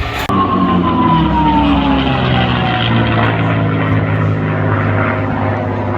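Propeller aircraft flying past at an airshow, its engine note dropping in pitch as it passes and then settling into a steady low drone.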